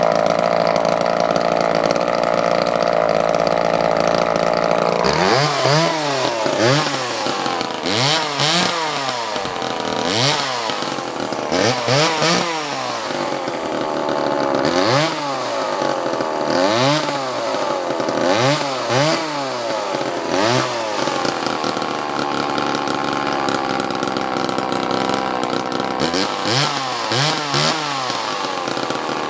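Homelite XL Super 2 two-stroke chainsaw engine running steady for a few seconds, then revved over and over. The throttle is blipped about once a second, so the pitch rises and falls with each blip. It settles back to a steady run for a while and is blipped a few more times near the end.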